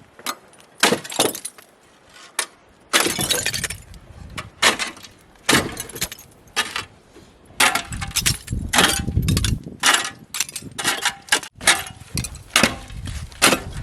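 Shovel working dry, very cold snow: a run of crisp crunching scoops in irregular bursts, about one a second, coming faster in the second half.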